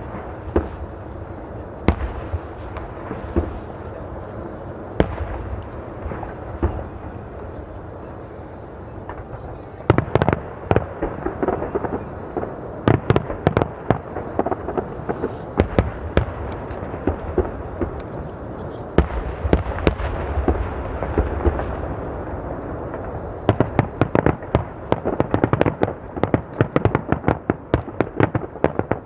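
Aerial fireworks display: shells bursting with sharp bangs a second or two apart at first. About ten seconds in it turns into a dense run of overlapping bangs and crackling, and near the end into a rapid crackle of many small reports.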